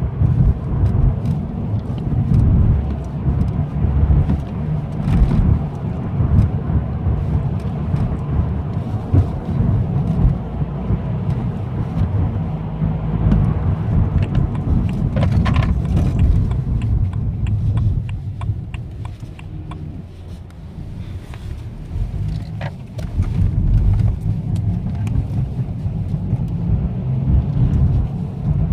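BMW 123d's twin-turbo four-cylinder diesel running with a low, steady rumble that eases off for a few seconds past the middle and then builds again.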